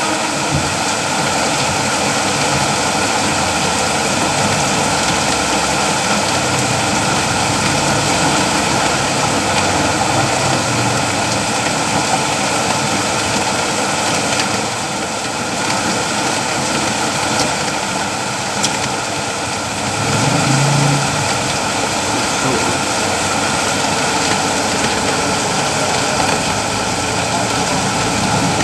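Steady rain falling, a continuous dense hiss, with a brief low rumble about two-thirds of the way in.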